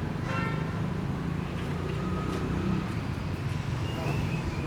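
Steady low hum of a running engine, with a few faint short high-pitched sounds partway through.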